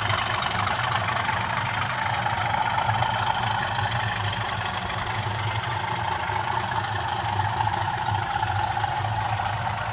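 OO gauge model diesel locomotive running on the layout, its DCC sound decoder giving a steady diesel engine drone.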